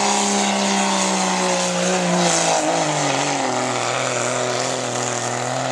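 1996 Dodge pickup's Cummins turbo-diesel running hard under load on a truck pull. It holds a steady high note, drops in pitch a little past halfway, and holds the lower note.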